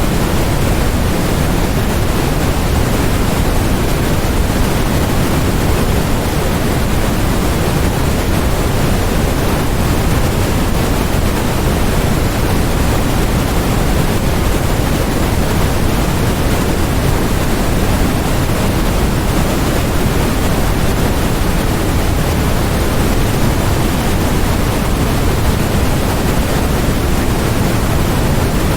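Steady, unchanging synthetic noise played as a white-noise track: an even hiss with more weight in the low end, closer to pink noise than flat white noise.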